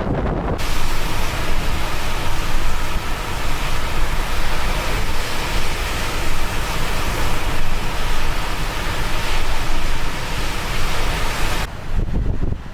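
Blizzard winds buffeting the microphone in a low, gusting rumble. About half a second in, a steady full rushing hiss of wind and surf sets in, and it cuts off suddenly near the end.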